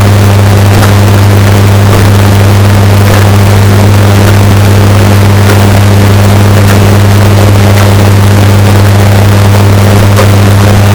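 Washing machine running, bass-boosted and distorted into a loud, steady low hum with a second hum above it. Faint clicks come now and then.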